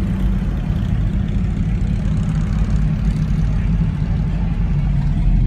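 Vehicle engines rumbling steadily at low speed, heard from inside a vehicle's cab.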